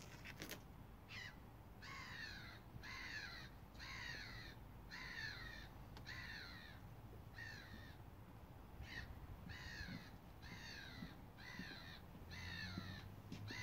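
A bird calling over and over: a long series of about fourteen harsh calls, each falling slightly in pitch, roughly one a second, with short pauses about four and eight seconds in.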